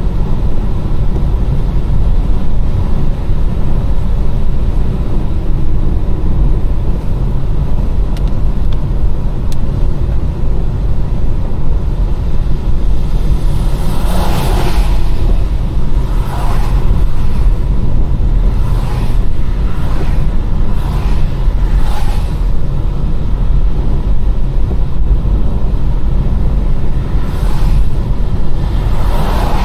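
Car driving on a wet road: a steady low rumble of engine and tyres, with brief swishing sounds every couple of seconds in the second half.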